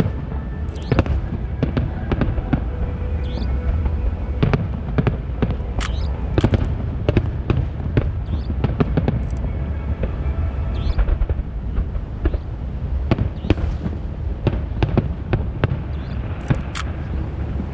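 Aerial fireworks shells bursting, a rapid irregular string of sharp bangs over a continuous low rumble.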